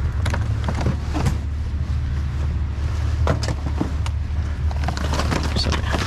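Rustling, clicks and light knocks of clothing and gear being rummaged through and handled, over a steady low rumble.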